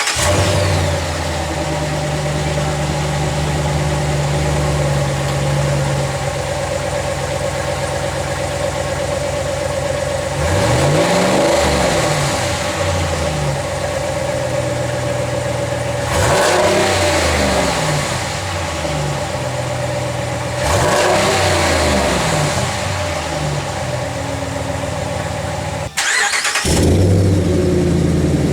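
2016 Ram 1500's 5.7 L Hemi V8 on its stock factory muffler, heard from behind the rear bumper: idling steadily, revved three times about 11, 17 and 21 seconds in, each rise and fall lasting a couple of seconds. A brief break near the end, then idling again.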